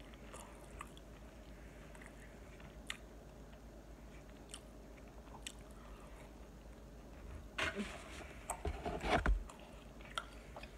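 A person chewing a fried sambusa pastry, with soft mouth clicks and small crunches. About 7.5 s in, there are two seconds of louder scraping and knocking as a fork works in a foam takeout container.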